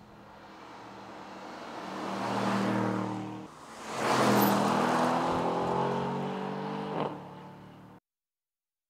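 Aston Martin DBX707's twin-turbo V8 accelerating hard in two rising surges, with a short break between them about three and a half seconds in, like a gear change. A sharp crack comes near the end, and then the sound cuts off suddenly.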